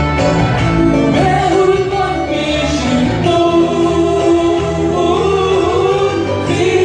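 Singers performing a Sudanese Christian hymn with instrumental backing, recorded live. The melody moves steadily over a sustained low accompaniment.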